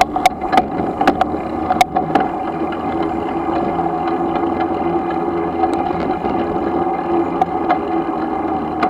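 Razor MX500 electric dirt bike riding at a steady speed: its electric motor gives a steady whine under road and wind noise, with a few sharp rattling clicks in the first two seconds.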